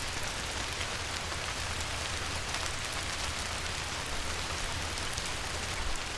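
Light rain falling on a river, a steady patter of many fine drops hitting the water, over a low rumble.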